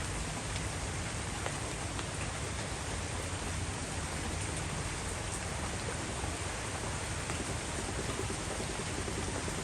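Heavy rain pouring down steadily in a storm: a dense, even hiss with scattered sharper taps of drops.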